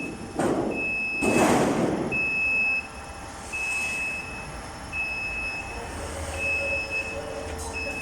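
An electronic warning beeper sounding a steady high beep about every second and a half. Two bursts of hissing noise come in the first three seconds, the second one louder and about a second and a half long.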